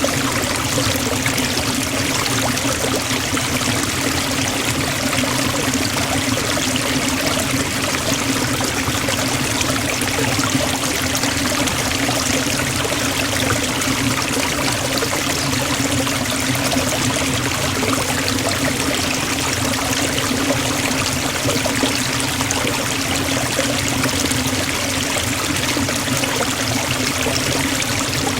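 Forest waterfall: falling water making a steady, even rush with no change.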